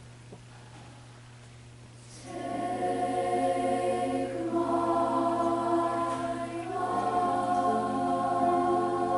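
Junior high school choir singing; after a quieter lull the voices come in about two seconds in and hold sustained chords.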